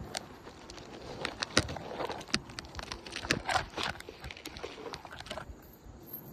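Asphalt roof shingles being worked by hand and stepped on: irregular scuffs and crackles with sharp clicks, busiest through the middle.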